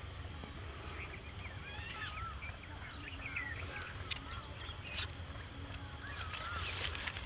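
Small birds chirping in short, curling, warbling calls, scattered throughout, over a steady low rumble.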